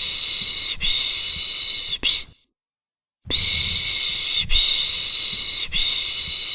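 A person shushing a baby to sleep ('piş piş'): long, steady 'shhh' sounds about a second each with brief breaks, a short 'sh', then about a second of silence before the next run. The sequence repeats in a loop.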